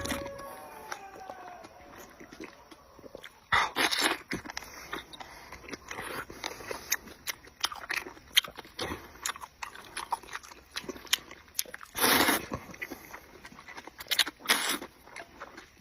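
Close-up mouth sounds of someone eating soft beef tendon and rice noodles: irregular wet chewing clicks and smacks, with a few louder bursts of half a second or so, the loudest about twelve seconds in.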